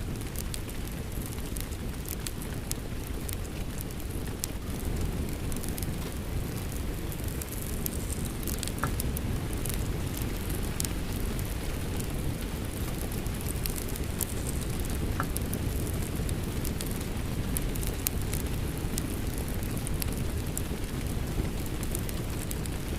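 Steady rain mixed with a crackling wood fire: a dense even rush heavy in the low end, with many small sharp pops and crackles scattered throughout.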